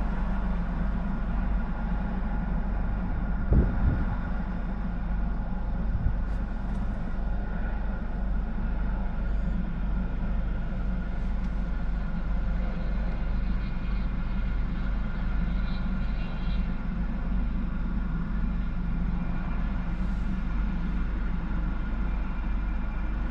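Steady low hum of a car idling with its ventilation running, heard from inside the cabin, with one brief low thump about three and a half seconds in.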